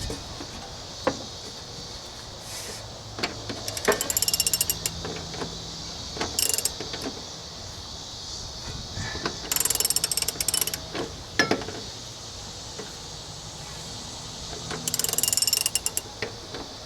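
Ratchet wrench clicking in four short bursts of back-strokes, with scattered knocks of the tool between them, as the lock nut on a mower deck's new idler pulley is tightened.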